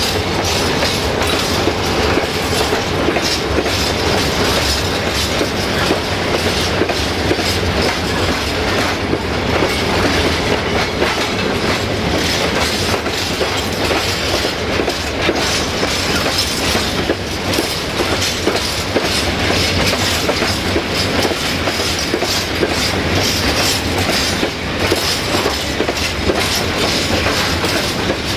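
A freight train of railway tank wagons rolling past, with a steady loud noise of steel wheels running on the rails.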